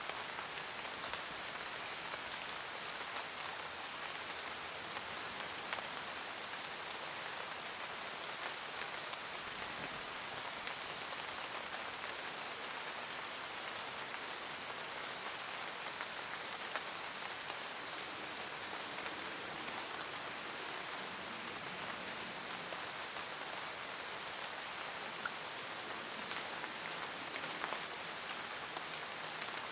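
Steady rain falling in a forest, an even hiss with scattered individual drops ticking on leaves and other surfaces.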